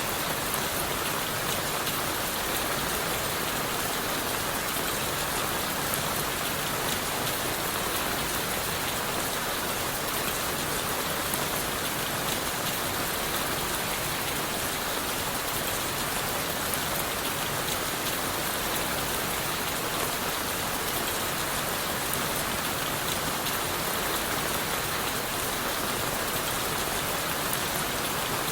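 Steady rain falling on leaves and wood, a dense even patter of many drops that does not let up.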